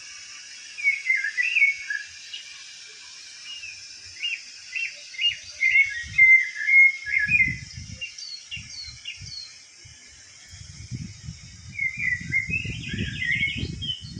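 Birds chirping and twittering in short, quick phrases of whistled notes, busiest around the middle and again near the end, with irregular low rumbling bumps underneath in the second half.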